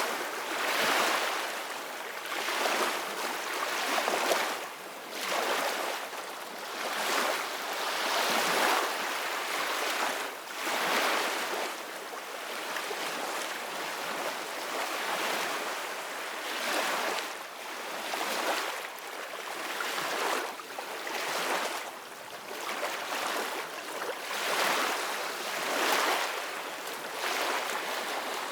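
Ocean waves breaking and washing on a shore, a steady hiss of surf that swells and falls back every second or two.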